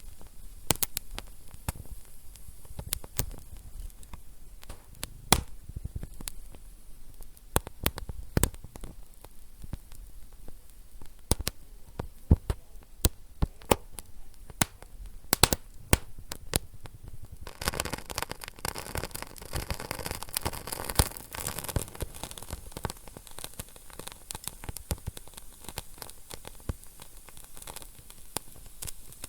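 Wood fire burning in a fireplace, with irregular sharp crackles and pops throughout. From a little past halfway a steady hiss rises beneath the crackling and stays.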